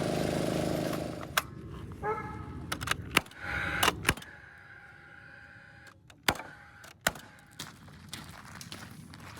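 A small engine running steadily, which stops about a second in, followed by scattered sharp clicks and knocks.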